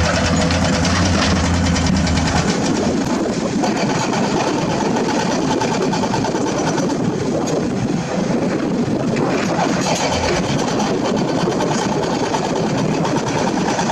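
Heavy diesel construction machinery running: a steady low engine hum for the first couple of seconds, then a rougher, noisier engine sound.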